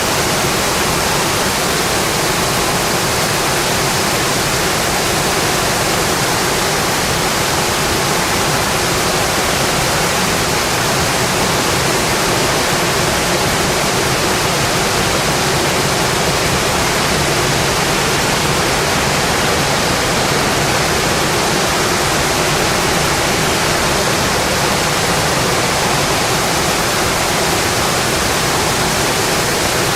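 Steady rain, a dense even hiss at a constant level with no separate drops or crackles standing out.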